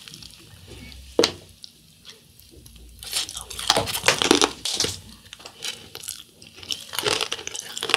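Crunchy chewing of a fried cheese corn dog coated in crushed instant-ramen noodles, with a sharp crunch about a second in and further bursts of crunching midway and near the end.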